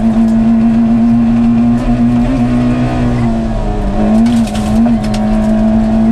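Fiat SCS rally car's engine held at high revs under hard driving, heard from inside the cabin: a steady, loud engine note that wavers briefly about two and a half seconds in and dips and picks up again about four and a half seconds in.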